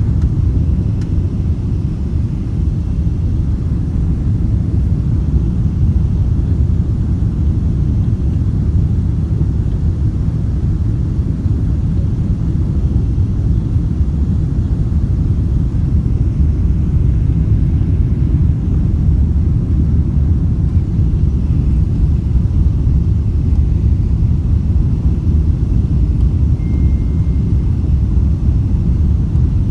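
Steady low rumble of a Boeing 777-200ER airliner heard from inside the cabin, even and unchanging throughout.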